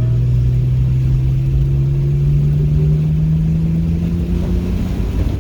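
Car engine accelerating under load, its revs climbing smoothly and steadily through one gear, over a low rumble.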